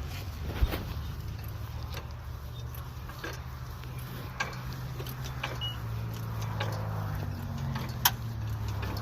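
A steady low motor hum, with a few sharp clicks and knocks over it, the loudest about half a second in and near the end.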